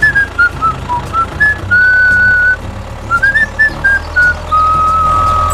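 A tune whistled in short notes that hop up and down, opening with an upward slide, with a long held note near the end, over a low steady hum.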